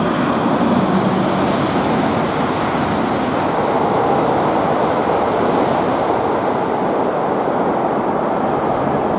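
Tohoku Shinkansen train passing through the station at high speed: a loud, steady rush of wind and rolling noise that swells in just at the start, holds for about nine seconds and then begins to fade.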